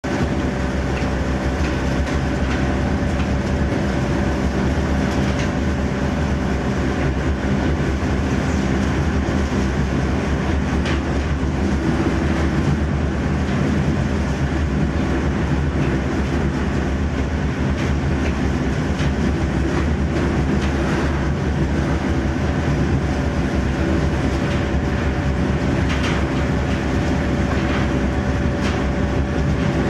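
Charcoal grinder running steadily, a constant mechanical hum and rattle with occasional sharp clicks.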